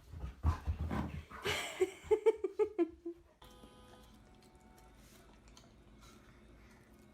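A dog whining in a quick run of short, pitched cries, about five a second, after a second or so of rustling and bumps. It breaks off abruptly about three seconds in, leaving only a faint steady background hum.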